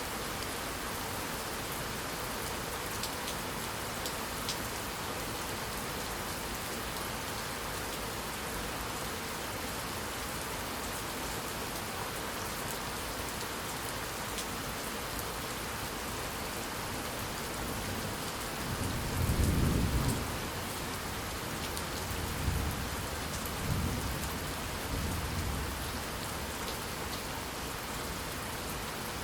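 Steady rain falling, with a low roll of thunder about two-thirds of the way through that swells, peaks and rumbles on in a few waves before fading back into the rain.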